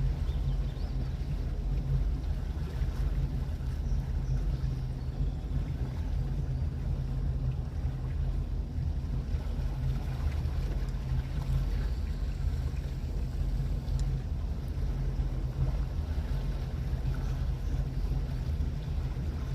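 Engine of a 30-foot boat running steadily, a low, even drone with no change in speed.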